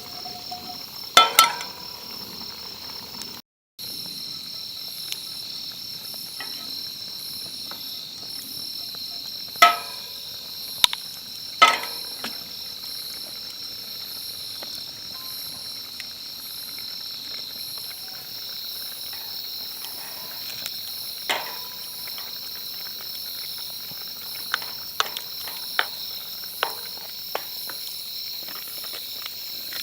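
A steady chorus of insects chirping with a high-pitched, pulsing trill, broken by occasional sharp clicks and knocks.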